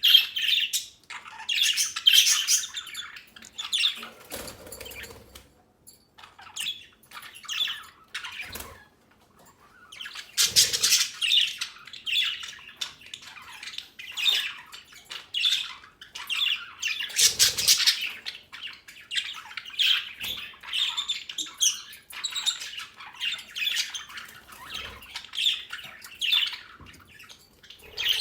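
Young budgerigars (budgies) chattering: a steady stream of short chirps, warbles and squawks, with a few soft thumps and wing flutters here and there.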